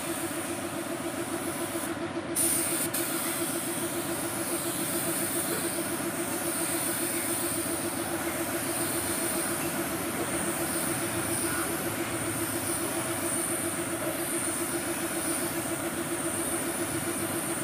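A steady machine drone with a constant hiss and a thin high whine running through it, with no change in speed or pitch.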